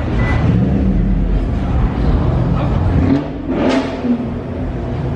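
Car engine running and revving: the pitch rises about a second in, the level falls off about three seconds in, and a short sharp burst of noise comes near four seconds.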